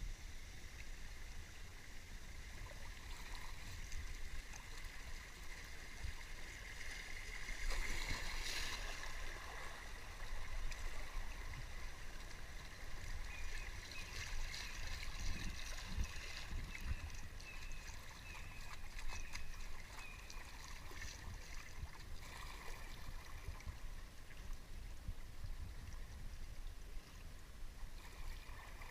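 River water gurgling and trickling around a kayak, with a low rumble of wind on the microphone. A run of short, high chirps comes in about halfway through.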